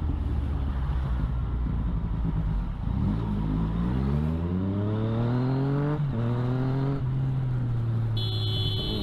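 Motorcycle engine accelerating. It runs steadily at first, then climbs in pitch for about three seconds, drops back at a gear change about six seconds in, and holds steady after that.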